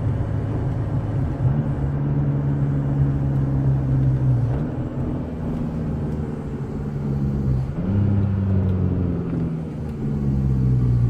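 2.8 L Duramax four-cylinder turbodiesel heard from inside the cab while decelerating toward a stop with the exhaust brake engaged: a steady low engine note whose pitch shifts a few times, around 4 and 8 seconds in.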